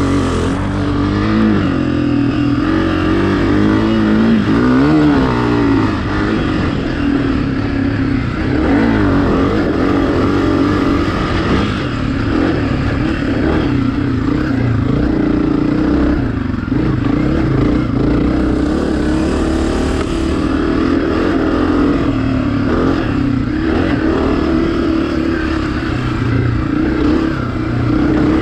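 Honda dirt bike engine running on the move, its revs rising and falling with the throttle. The biggest swings come in the first several seconds, then the engine holds a steadier pitch.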